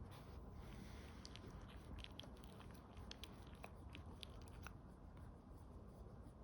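A dog chewing: faint, irregular crunching clicks that thin out and stop about five seconds in.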